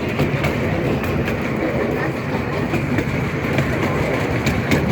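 Riverside & Great Northern steam train rolling along the track: a steady rumble with a few sharp clicks of the wheels over rail joints.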